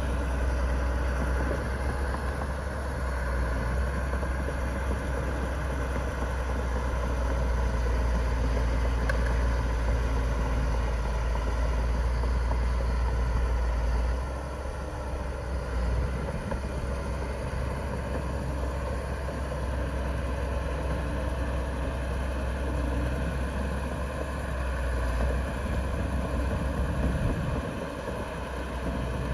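Diesel engines of heavy earth-moving machinery running steadily with a deep rumble. The low rumble and overall level ease off about halfway through.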